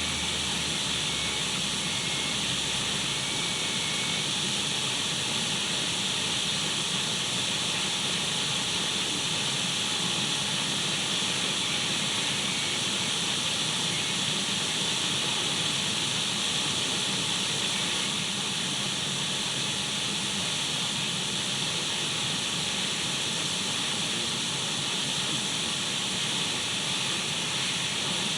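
Steady radio static: an even, unbroken hiss of an untuned radio, strongest in the upper middle.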